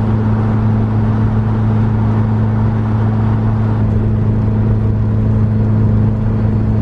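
Turbocharged DSM four-cylinder engine running at steady revs while driving, a loud even drone that holds one pitch.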